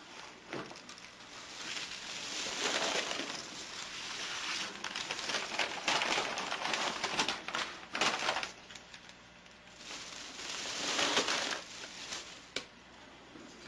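Rough scraping and rustling from work on a bird cage tray, in three long stretches with a few sharp clicks between them.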